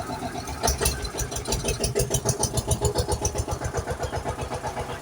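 A vehicle engine running with rapid, even pulses. It grows louder for a couple of seconds starting about a second in, then settles back.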